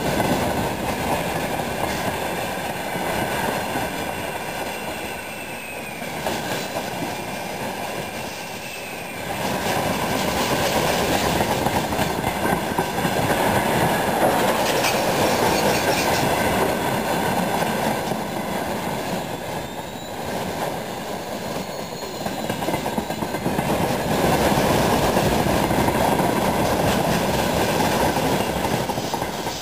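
Freight train of rail tank wagons rolling past: a steady rumble and clatter of wheels on the rails that swells and eases in waves, with a faint high wheel squeal now and then.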